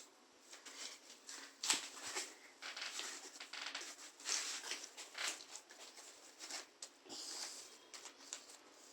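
Irregular rustling, clicks and light taps: objects being handled and moved about by hand, close to the microphone.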